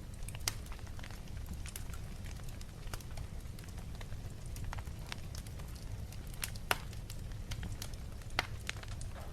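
Fire in a fireplace crackling, with sharp pops scattered through it over a low steady rumble; the loudest pops come about half a second in and twice near the end.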